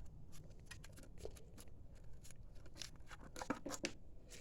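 Faint, scattered clicks and light scrapes of small objects being handled, with a cluster of sharper clicks about three and a half seconds in.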